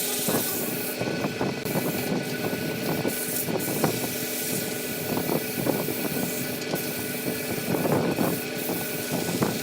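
Woodworking machine running: a steady motor hum under irregular scraping and rasping noise from work on the wood.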